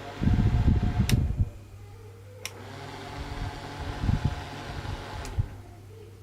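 Small DC motor fan of a homemade mini air cooler running with a steady hum and a faint motor whine. Its airflow buffets the microphone with a low rumble for the first second or so. A few sharp clicks come about one, two and a half, and five seconds in.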